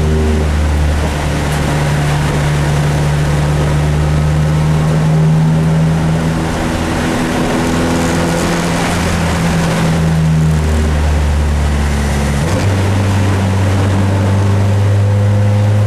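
Dodge Neon race car's four-cylinder engine running at steady part throttle, heard from inside the car, over the hiss of tyres on a wet track. Its note shifts a few times and steps up in pitch about two-thirds of the way in as the car slows.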